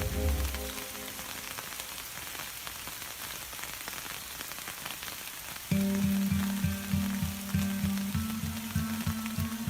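Steady hiss of heavy rain falling. About six seconds in, background music with a short, repeating rhythmic figure cuts in abruptly over the rain.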